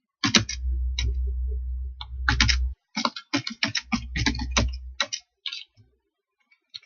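Typing on a computer keyboard: a run of quick keystrokes, densest in the middle of the stretch, then stopping about five seconds in.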